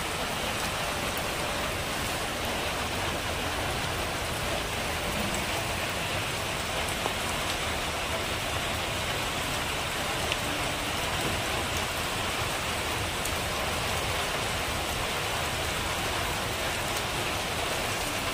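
Steady rain falling on leaves and wet, puddled earth, with scattered ticks of single drops.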